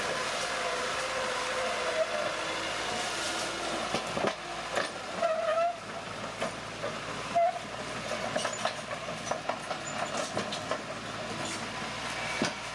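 Crawler bulldozer working, its steel tracks clanking and rattling over a steady engine noise, with short squeals from the track running gear.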